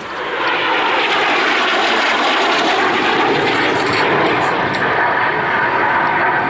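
Jet roar of a North American F-86A Sabre's General Electric J47 turbojet as the aircraft passes during its display. The roar swells in at the start and stays loud and steady.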